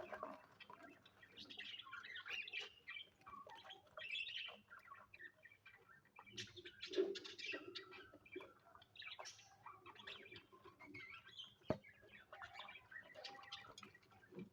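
Cockatiels chirping in many short, irregular calls, with a single sharp click near the end.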